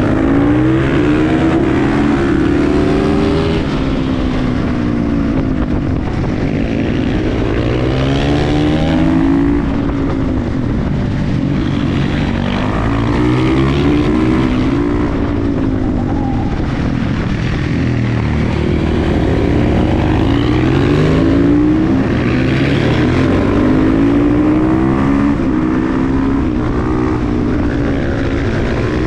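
KTM 350 EXC-F supermoto's single-cylinder four-stroke engine being ridden hard: the revs climb and drop again and again as it accelerates, shifts and slows.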